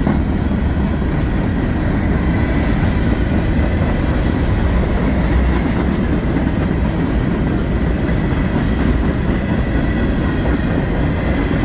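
Freight cars of a CSX mixed freight train rolling past: a steady, loud rumble with the clatter of steel wheels over the rail joints, and a faint steady high whine.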